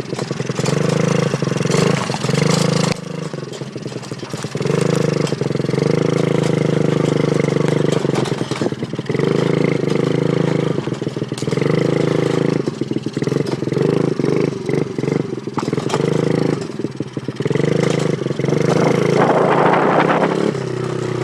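Engine of a 2003 gas-powered Honda dirt bike being ridden, revving up and falling back again and again as the throttle is opened and shut.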